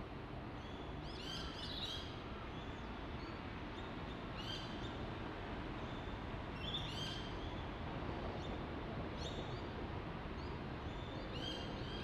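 Birds calling in short clusters of a few high notes, four times, every two to four seconds, over a steady low background noise.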